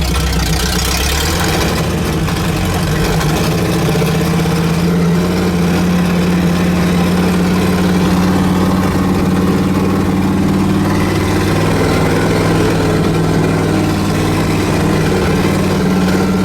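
Mud-bog truck engine running steadily under way, heard on board; its pitch rises a little in the first two seconds, then holds.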